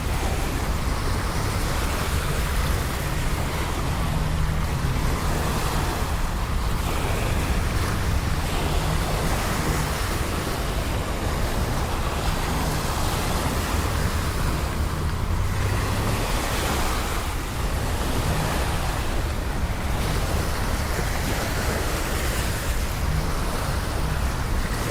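Steady rain hiss with a low, continuous rumble of city traffic underneath.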